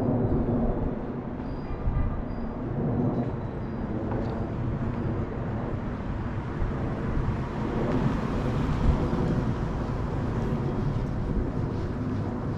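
Street traffic: a steady low rumble of motor vehicles.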